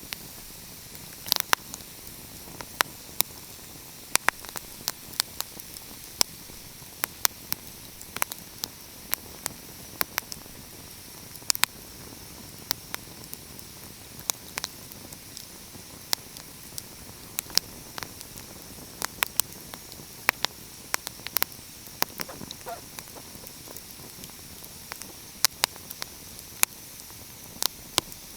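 Wood fire crackling: irregular sharp pops and snaps, several a second at times, over a steady hiss.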